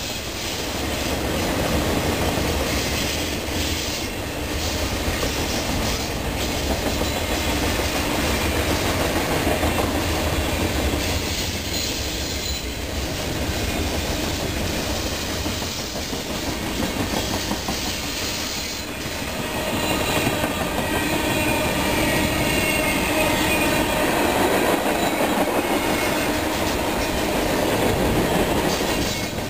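Freight cars of a passing train rolling by at speed: a steady rumble of steel wheels on rail with a running clickety-clack as the wheels cross rail joints.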